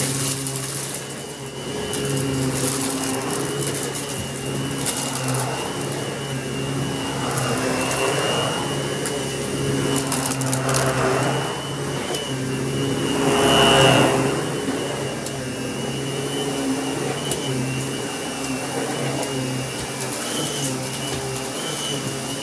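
Kenmore canister vacuum cleaner running steadily with a high motor whine and a low hum. The suction noise swells and fades as the nozzle is pushed back and forth, loudest about two-thirds of the way through, with scattered crackles as debris goes up the hose.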